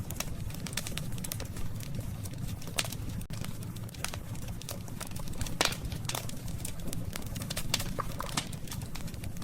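Wood campfire burning: a steady low rumble under frequent sharp crackles and pops of burning wood, the loudest pop about five and a half seconds in.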